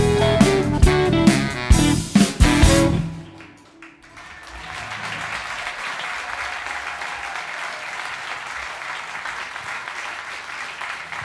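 A live jazz-rock band with guitar, saxophones, keyboards, bass and drums plays its closing bars with sharp accented hits; the music stops about three seconds in. About a second later audience applause starts and continues steadily.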